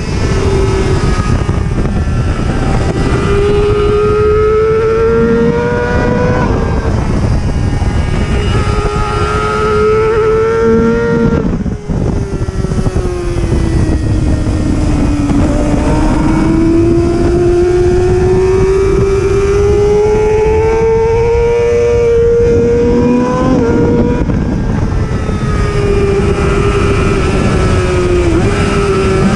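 Superbike racing motorcycle engine at high revs, its pitch climbing and dropping sharply at gear changes several times, with a slower fall in pitch as it slows in the middle.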